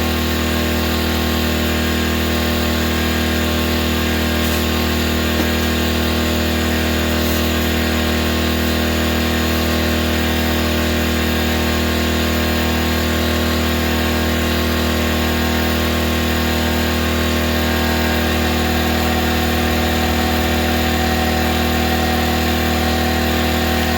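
Air compressor running steadily, its motor giving a constant hum that does not change.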